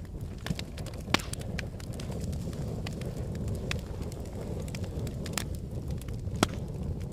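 Logs burning in a fireplace: a steady low rumble of the flames with irregular sharp crackling pops, a loud one about a second in and two more near the end.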